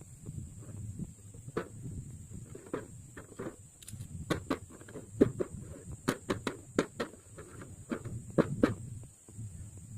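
Irregular light clicks and taps over a low rumble, growing busier from about four seconds in, with several taps close together each second.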